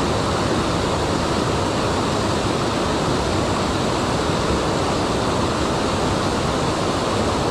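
Mountain stream rushing over rocks: a steady, even wash of fast-flowing water.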